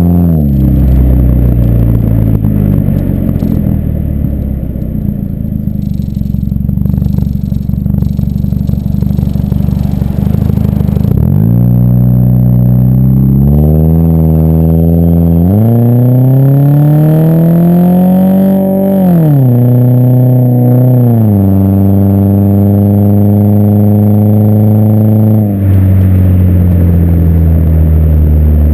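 2007 Ford Focus four-cylinder engine running through an aftermarket BWR exhaust while driving, with a steady drone at cruise. Past the middle the note climbs under acceleration and falls back at each shift of the automatic gearbox, then holds steady again and drops once more near the end.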